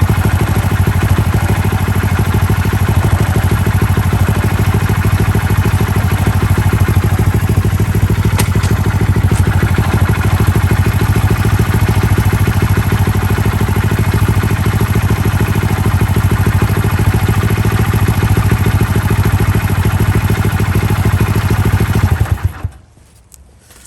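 Honda Little Cub (AA01) 49 cc single-cylinder four-stroke engine running steadily at idle, with the loud abnormal clattering noise from around the engine that is being diagnosed. It stops suddenly near the end.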